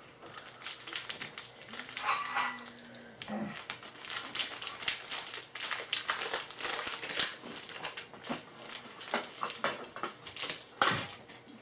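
Foil trading-card pack wrapper crinkling and tearing as it is opened, with the cards inside being handled. The sound is an irregular run of crackles and rustles throughout.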